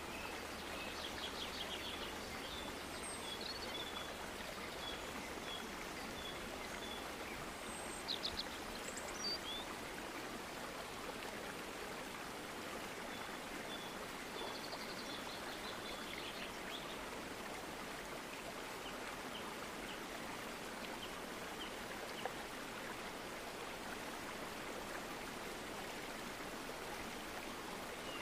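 Steady background hiss with birds chirping: runs of short high chirps, two or three a second, near the start and again around the middle, with a couple of quick trills in between.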